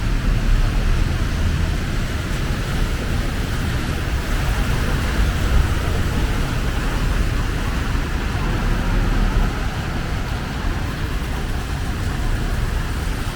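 Steady city street traffic noise: vehicles running past with a continuous low rumble.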